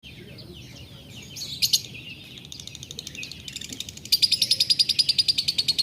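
Lovebird singing: a few short falling chirps and a sharp call, then a long, fast trill of repeated high notes, about a dozen a second, that turns louder about four seconds in. This is the long dry-toned 'tarikan' trill that keepers look for in a fighter lovebird.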